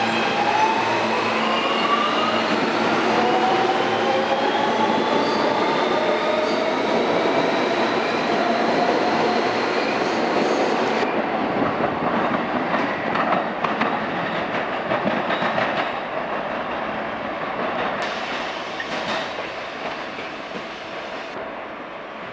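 New York City Subway R160B train, with mixed Siemens and Alstom propulsion, accelerating out of a station. Its propulsion whine rises in pitch as several tones over the first ten seconds or so. Then the wheels clatter over the rail joints as the train pulls away and fades.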